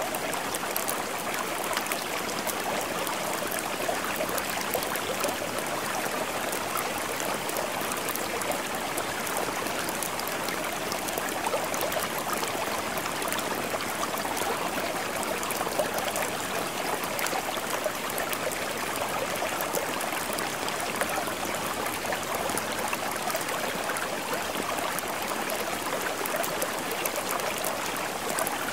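Steady rain splashing: an even rushing hiss over a dense scatter of small drop ticks, unchanging throughout.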